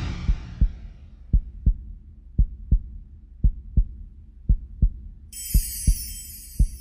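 Heartbeat sound effect in the closing music: pairs of low thumps, lub-dub, about one pair a second, over a low hum. It opens on a fading whoosh, and a high hiss comes in near the end.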